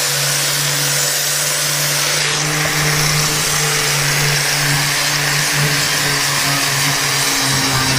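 Corded angle grinder fitted with a wire brush wheel, running steadily against a heavily rusted steel plate, its motor hum under a loud scouring hiss. The hum drops slightly in pitch near the end.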